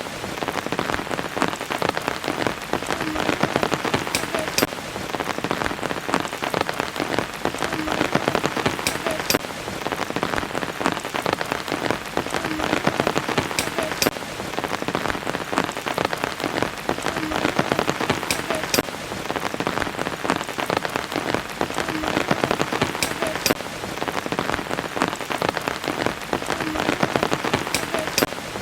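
Steady rain pattering on surfaces, with a sharper drop standing out now and then. The same pattern comes round again about every four and a half seconds, as in a looped recording.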